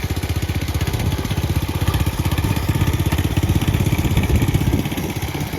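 Cub Cadet riding tractor engine running steadily, with a fast, even firing beat.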